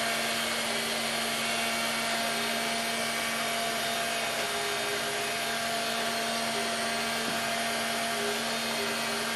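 Robotic vacuum cleaner running steadily: an even motor and fan hiss with a constant hum.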